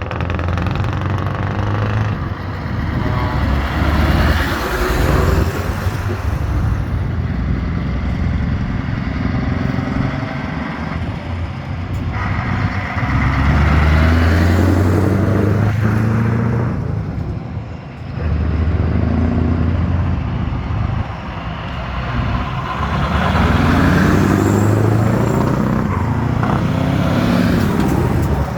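Vintage trucks driving past one after another, their engines rumbling louder and fainter in several swells as each goes by, some shifting pitch as they accelerate.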